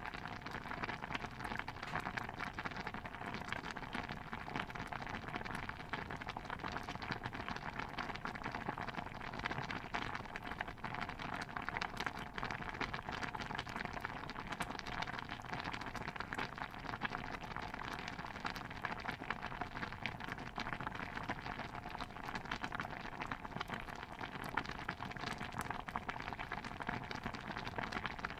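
Stew bubbling steadily in a pot: a dense, even patter of small pops and crackles that never lets up.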